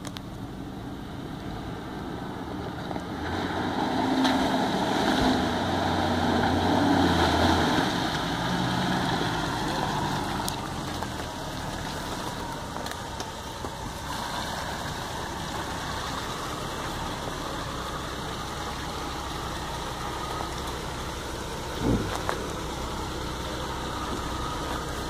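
Four-wheel drive's engine working along a muddy track, louder and stepping in pitch for several seconds as it pulls past, then running steadily close by. A single short thump near the end.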